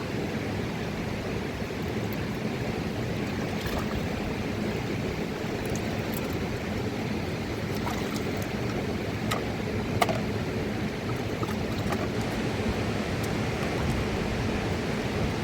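Rushing mountain river: a steady, unbroken rush of water, with a few short clicks, the clearest about ten seconds in.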